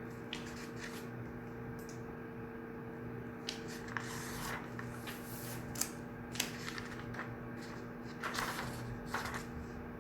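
Study-room ambience: a steady low hum under scattered rustles of paper and small sharp clicks, with two distinct clicks in the middle and a burst of rustling near the end.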